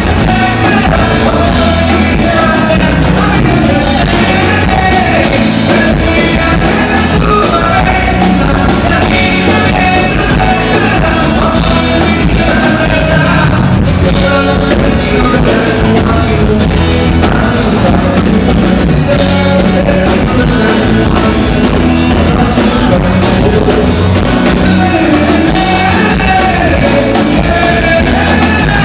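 Live dance band playing loudly, with a lead singer over the band.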